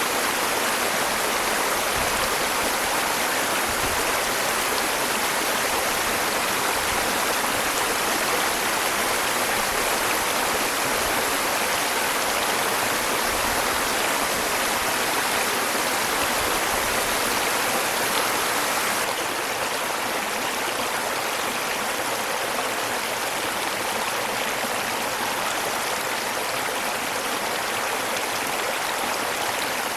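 Waterfall rushing steadily, a dense even roar of falling water that drops slightly in loudness about two-thirds of the way through.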